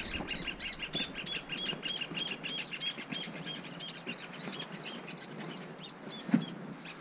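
A bird calling in a fast, even series of short chirps, about three or four a second, that fades out a little past halfway. A soft knock near the end.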